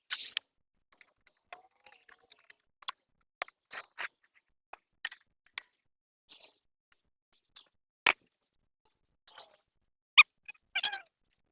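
Scattered clicks, knocks and crackly scrapes of a hive being worked by hand: hive tool and wooden frames. There is a sharp knock about eight seconds in and another about ten seconds in, then a short run of crackling scrapes.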